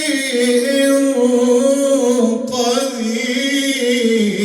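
A male Quran reciter's unaccompanied voice holding a long, ornamented melodic line in tajwid-style recitation, the pitch wavering and bending, with a brief break about halfway through.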